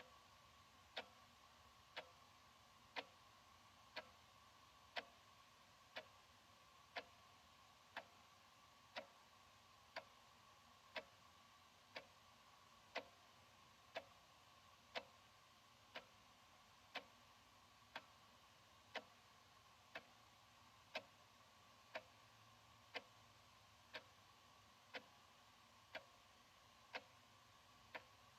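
Analog wall clock ticking steadily, one sharp tick each second.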